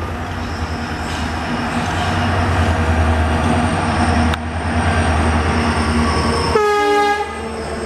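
A train running past with a heavy, steady low rumble that swells through the middle, and one short horn blast near the end.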